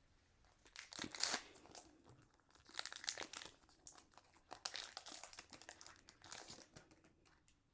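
A Pokémon booster pack's foil wrapper crinkling and tearing as it is opened by hand, in several short rustling bursts.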